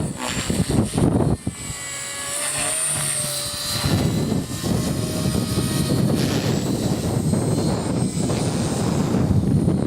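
Small electric RC helicopter (Align T-Rex 250) in flight, its motor and rotor whine shifting up and down in pitch as it manoeuvres. Wind gusts rumble on the microphone underneath.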